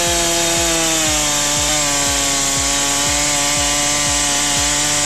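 Chainsaw running at full throttle while cutting through wood, its engine pitch sagging slightly under load and picking back up near the end.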